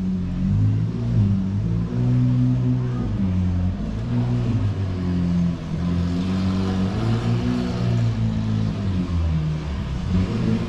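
Car engines running, the low engine note rising and falling as the revs change.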